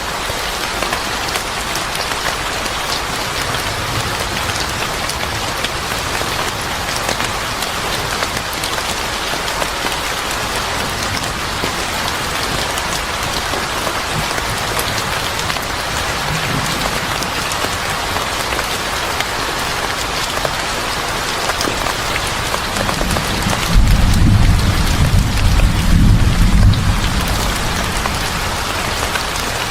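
Steady heavy rain hissing without a break. About 24 seconds in, a low roll of thunder rumbles for about three seconds and is the loudest sound.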